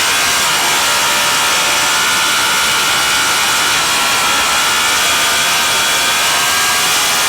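Racing motorcycle engine running hard at a steady high pitch, mixed with a heavy, constant rush of wind noise.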